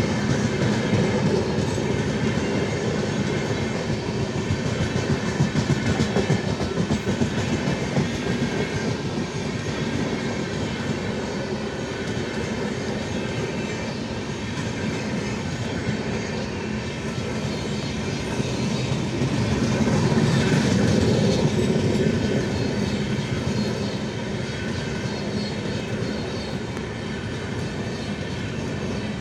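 Train running along the track: a steady rumble of wheels on rails that swells louder about two-thirds of the way through, then eases.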